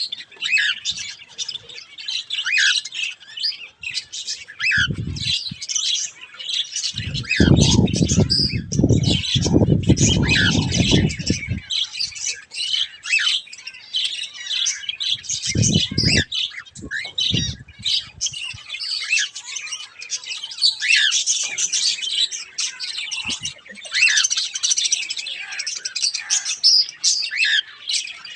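Cockatiels and other aviary birds chirping and calling continuously, a dense mix of short high chirps and squawks. A few seconds of low rumbling noise come about a third of the way in, with shorter bursts of it later.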